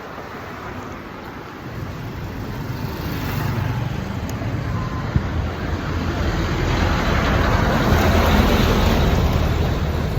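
Street traffic: a motor vehicle's engine hum and tyre noise grow louder, peaking about eight seconds in as it comes close.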